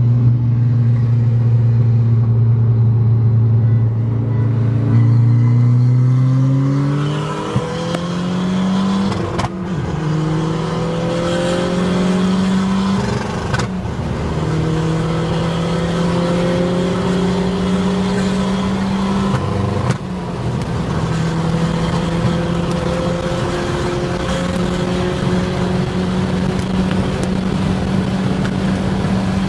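2001 Audi S3's turbocharged 1.8-litre four-cylinder, heard from inside the cabin: it runs steadily for the first few seconds, then accelerates hard through the gears, its note climbing and dropping back at each upshift.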